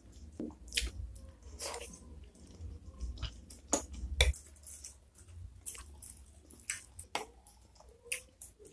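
Close-miked wet chewing and lip-smacking of a mouthful of beef meatball soup with noodles, in short irregular clicks. The fork scrapes and clinks against the ceramic bowl now and then.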